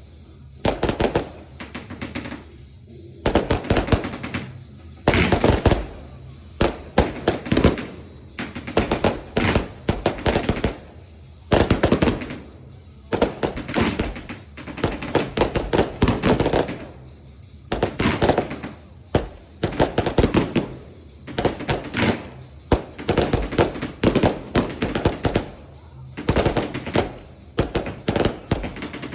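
Fireworks barrage cakes firing, volleys of rapid bangs coming in dense clusters about every second or two, like machine-gun fire.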